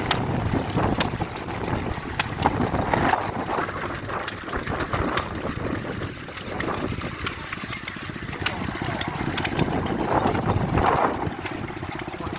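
Vintage stationary engines running steadily, with a low chugging and many sharp firing clicks through it.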